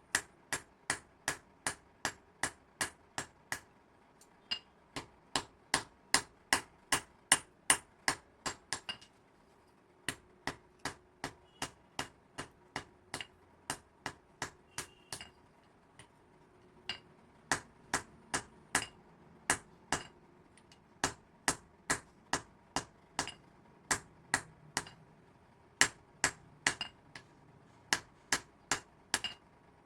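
Hand hammer striking metal on an anvil in steady runs of sharp, ringing blows, about three a second, with a couple of short pauses.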